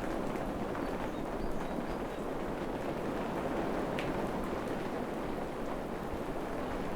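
Steady rain falling in a forest, an even hiss with one sharper tick about four seconds in.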